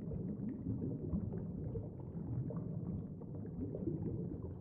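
Underwater ambience: a steady low rumble with faint bubbling and small scattered clicks.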